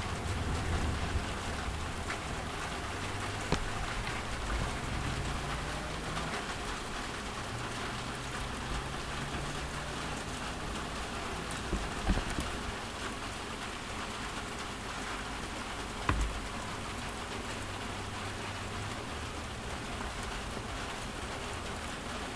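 Heavy rain pouring down on the roof of a Class C motorhome, heard from inside as a steady dense hiss with a few louder taps. A low thunder rumble dies away over the first few seconds.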